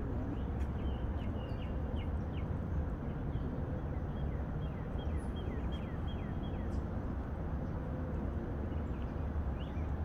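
A small bird calling a quick series of short, falling chirps, two or three a second, which stop about seven seconds in, over a steady low rumble.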